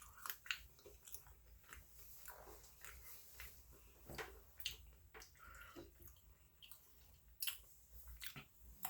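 Faint mouth sounds of someone eating Chinese takeout food: chewing and biting, with scattered short clicks.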